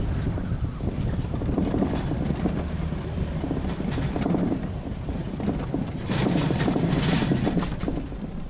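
Wind buffeting the microphone: a loud, uneven low rumble, with some crackling about six to seven seconds in.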